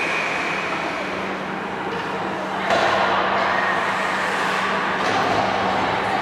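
Ice hockey rink ambience: a steady low hum under a wash of noise, which turns suddenly louder about two and a half seconds in.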